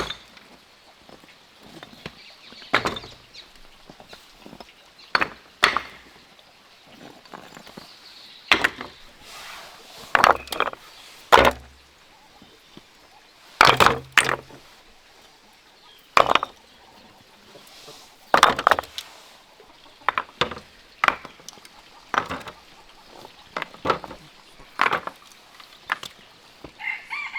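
Irregular sharp knocks and clacks of hard material being handled and struck, about one every second or two, some in quick pairs.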